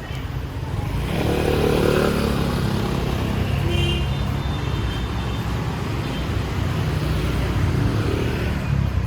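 Motor vehicle traffic passing close by, a low rumble that swells about a second in, holds, and eases off near the end.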